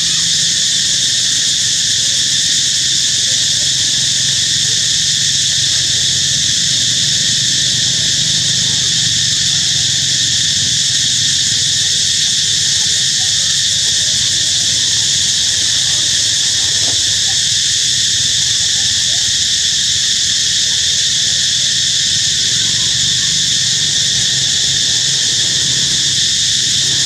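Steady, shrill insect chorus that drones on without a break at an even level.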